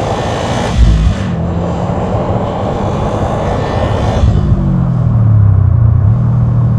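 2007 Subaru STI's 2.5-litre boxer engine, tuned to about 400 hp, running while driving, with a loud thump about a second in. A hiss over the engine note drops away about four seconds in, and the engine note then climbs.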